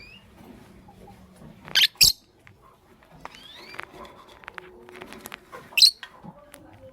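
Lovebirds chirping: sharp, shrill calls, two loud ones close together about two seconds in and another near six seconds, with softer rising whistled chirps and small clicks between.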